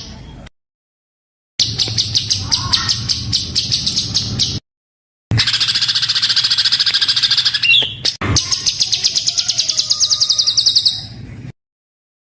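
A caged songbird's rapid, harsh burst song, with dense rough notes repeated at about eight a second. It comes in three edited segments separated by brief dead silences.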